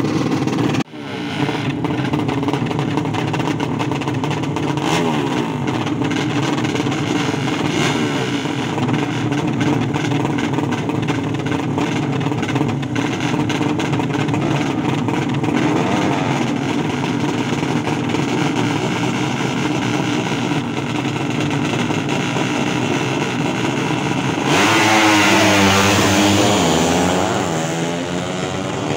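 Racing motorcycle engines running steadily. Near the end one gets louder and sweeps up and down in pitch as it revs.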